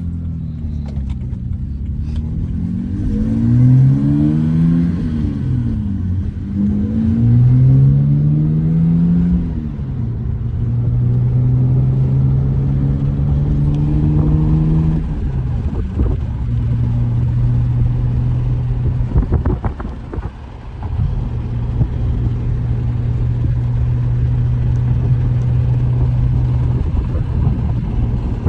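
Car engine heard from inside the cabin, rising in pitch and dropping back several times as it accelerates up through the gears, then holding a steady drone while cruising.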